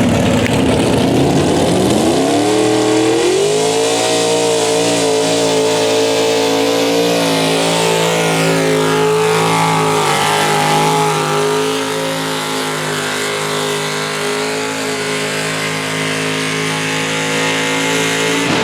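A tractor-pull competitor's engine revs up over the first few seconds, then holds at high revs under full throttle for the rest of the pass, easing slightly about halfway through.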